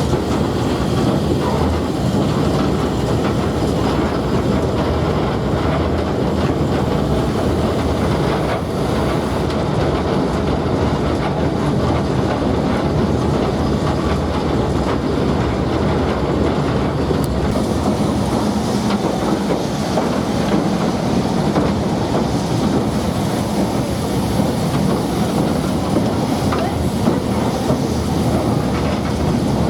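Train running along the line, a steady, unbroken running noise with the clickety-clack of wheels over the rails.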